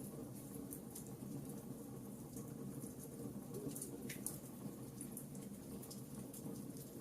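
Campfire crackling: a steady low rush of burning wood with frequent sharp pops and snaps, and a brief falling whistle about four seconds in.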